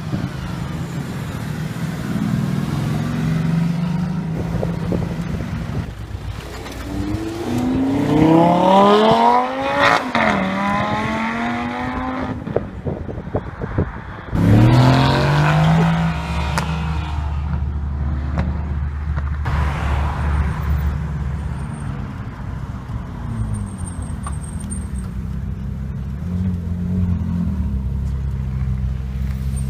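Supercar engines running at a low idle, with two hard accelerations whose pitch climbs steeply. The first acceleration dips briefly about ten seconds in, like a gear change, then climbs again. The second starts suddenly halfway through, and a smaller rev follows a few seconds later.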